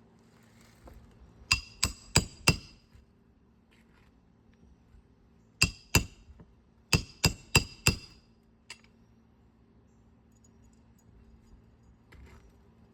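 Roofing hammer striking a steel roof snake to drive nails in under a lifted asphalt shingle: about ten sharp, ringing metallic strikes, in quick groups of four, two and four.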